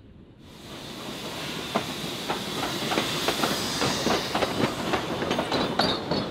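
Puffing Billy's narrow-gauge steam train passing close by: a rush of noise swells up about half a second in, with the wheels clicking quickly and unevenly over the rail joints.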